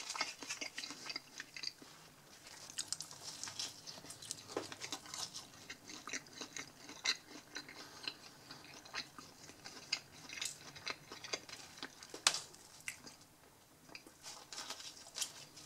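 A person biting into and chewing a slice of soft, fluffy pan pizza close to the microphone, with irregular wet mouth clicks and smacks.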